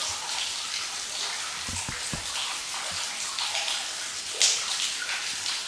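Steady hiss of trickling, dripping water, with a few dull low thuds about two seconds in and one sharp click a little past four seconds.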